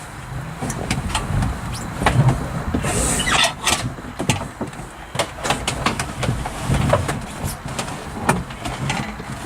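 Close handling noise inside a car: irregular bumps, clicks and rustles as things are moved and handled near the microphone, with a short hiss about three seconds in.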